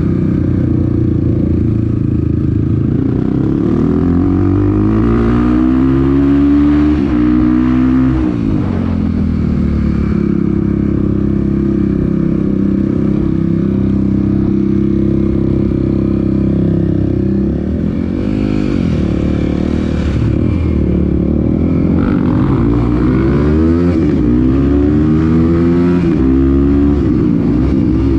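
Off-road motorcycle engine running under way, revving up and dropping back again and again as it shifts gears. It holds a steady speed for several seconds in the middle, then picks up in a run of quick rising revs near the end.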